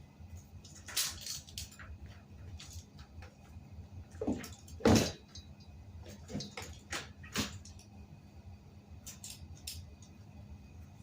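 Scattered clicks, taps and knocks of hand work on a bicycle wheel and tire, the loudest about five seconds in, over a faint steady hum.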